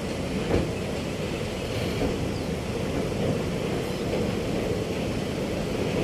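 Passenger train running over a rail bridge, heard from the carriage: a steady rumble of wheels on the track, with a brief clack about half a second in.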